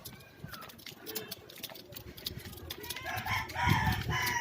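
A rooster crowing, one long call that starts about three seconds in and falls in pitch at its end.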